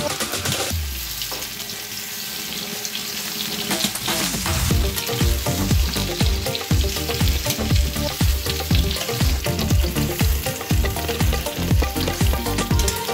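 Whole boiled potatoes frying in hot ghee in a pan, with a steady sizzle while a ladle stirs and turns them.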